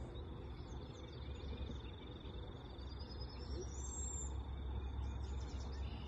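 Birds calling outdoors: a thin, steady high trill, a rising whistled call about three to four seconds in, and a few quick chirps about five seconds in, over a low rumble.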